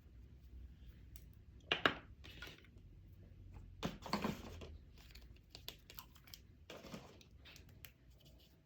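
Small handling sounds: a few short rustles or scrapes, the loudest about two and four seconds in, with light clicks in between.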